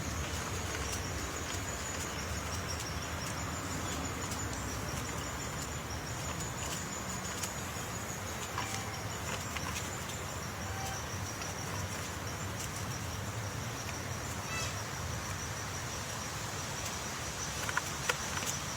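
Insects chirring in a steady high trill over outdoor background noise, with a few faint sharp clicks and two louder clicks near the end.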